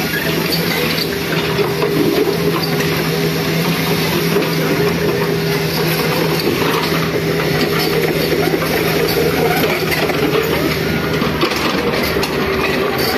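A large engine running steadily with a constant hum, under a dense mechanical clatter.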